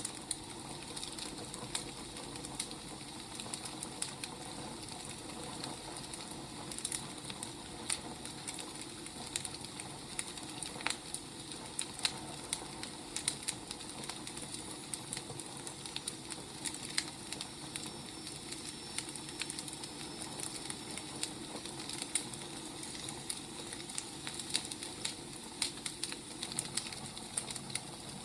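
Wood fire burning, with a steady low hiss and many irregular sharp crackles and pops from the logs.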